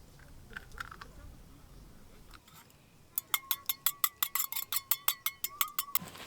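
Rapid, even metallic clinking, about seven strikes a second for some three seconds starting about halfway in: a utensil beaten against a ringing metal cup or bowl.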